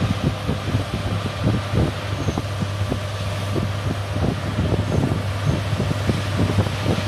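John Deere S780 combine harvester running steadily at work, a constant low hum under a broad mechanical rush, with wind buffeting the microphone in irregular low thumps.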